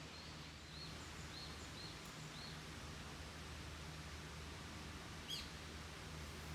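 A small bird calling: a run of about six short chirps in the first two and a half seconds, then a single sharper, louder call about five seconds in, over a faint steady low hum.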